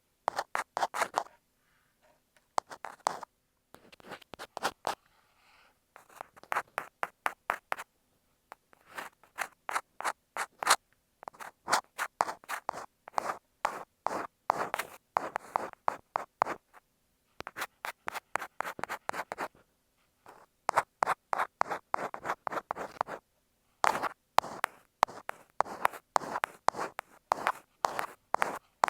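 Ear pick scraping and scratching on an earphone microphone: quick runs of short, crisp strokes, with brief pauses between the runs.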